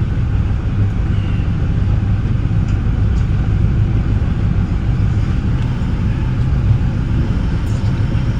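Metra bi-level commuter train running along the line, heard from inside the front cab car: a steady low rumble of wheels on the rails and running gear.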